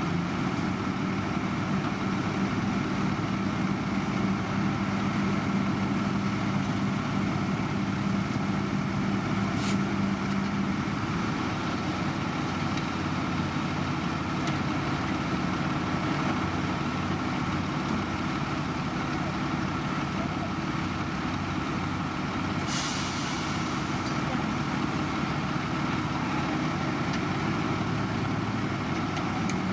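Heavy diesel engines of road-construction machinery running steadily, with a short sharp hiss about three-quarters of the way through.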